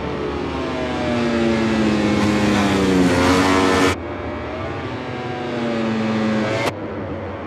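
MotoGP bikes' 1000 cc four-cylinder race engines at high revs, the engine note falling in pitch as it grows louder, cut off abruptly about four seconds in. A second engine note falls the same way and also cuts off suddenly near the end.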